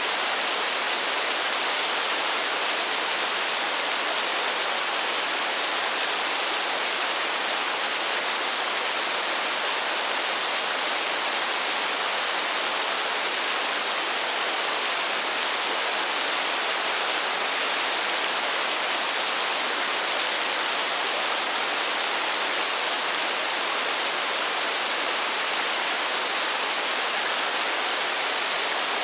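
Steady rain falling in a forest, an even hiss with no separate drops standing out.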